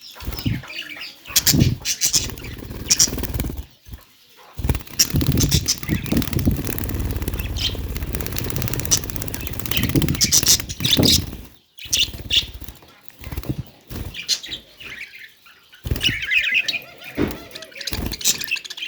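Budgerigars chirping and twittering in short, high bursts, with fluttering wings, over a low rumble.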